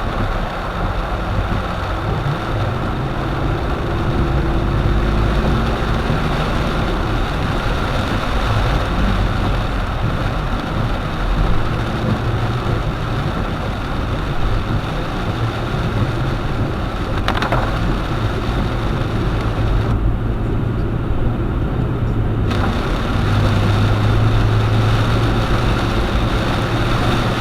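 Car driving in the rain: a steady low engine hum under an even hiss of rain and tyres on wet road. The hiss drops away for a couple of seconds about twenty seconds in, then returns.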